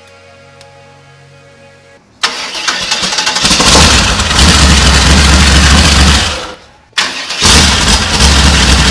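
V8 engine of a chopper trike cranking and catching about two seconds in, running loud for a few seconds, then dying away; it is started again right after and runs loud near the end.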